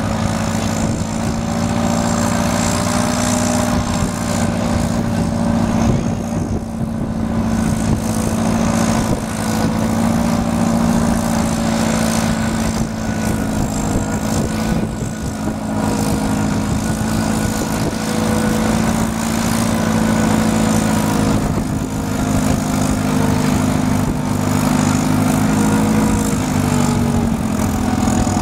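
Tractor engine running at a steady speed, its pitch dipping slightly near the end.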